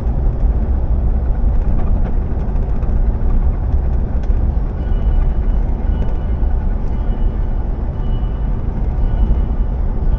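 A car driving: a steady low rumble of engine and road noise that holds even throughout.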